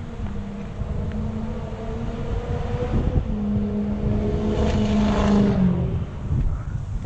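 An engine running with a steady hum that swells to its loudest about five seconds in and then fades away, like a motor vehicle passing by.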